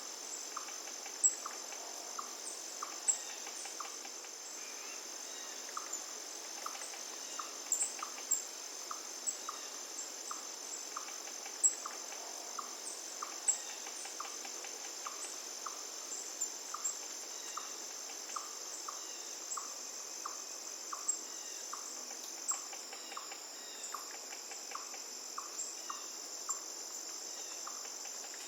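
A steady high insect chorus, with a short chirp repeating about once or twice a second and a faint even hiss of flowing river water underneath.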